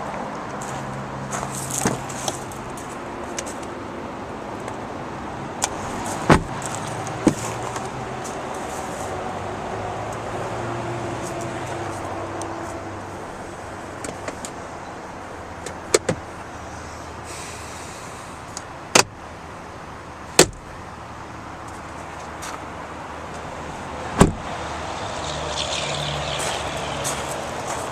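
Steady vehicle noise, broken by about half a dozen sharp knocks and clicks spread through it, the kind a door or latch makes.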